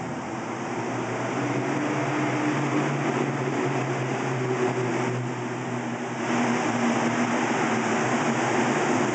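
1965 Mustang's 200 cubic-inch inline six held at high revs during a burnout, its steady engine note under a dense hiss from the spinning tyres; it gets louder about six seconds in.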